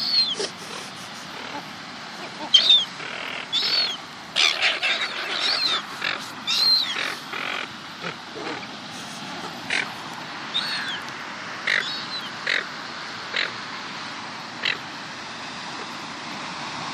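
Gulls squabbling over food, giving many short, high squawking calls, thick and fast in the first half and more scattered later.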